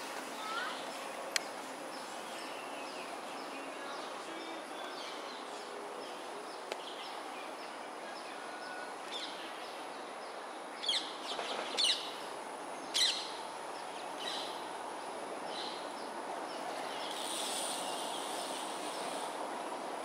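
Several short, sharp bird calls about halfway through, three of them louder and close together, over a steady background of outdoor environmental noise.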